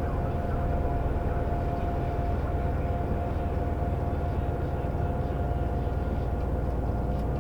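Seoul subway train running, heard from inside the car: a steady low rumble with a constant whine above it.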